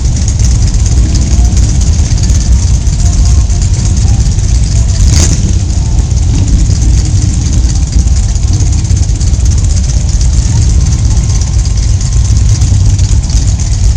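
Motorcycle engine running steadily under a heavy low rumble and hiss, with a single sharp click about five seconds in.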